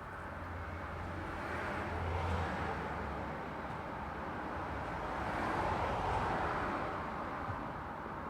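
Road traffic: two vehicles drive past, the first about two seconds in with a low rumble, the second around six seconds in, each swelling and fading over a steady background of traffic noise.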